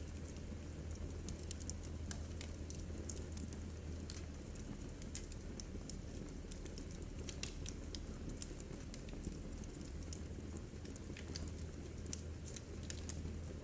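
Wood fire in a fireplace crackling: frequent, irregular sharp pops and snaps over a steady low rumble of the burning.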